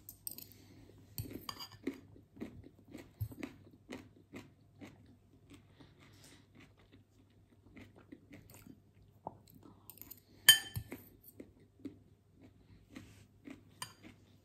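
Close-up chewing and crunching of a mouthful of homemade poke (soy pieces, carrot and cucumber), with a string of small irregular crunches. About ten seconds in there is one sharp ringing clink, a metal spoon against the glass bowl.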